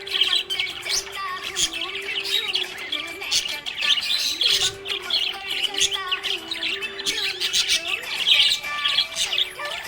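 Budgerigars chirping and warbling continuously, a dense run of quick twittering calls, over a low held tone that steps up and down in pitch now and then.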